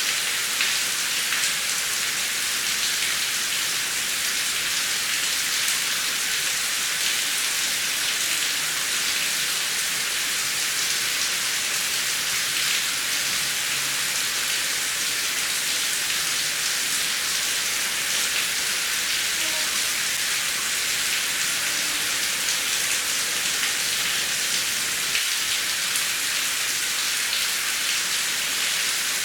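Steady heavy rain, a dense even hiss of drops with fine pattering, without any thunder in these seconds.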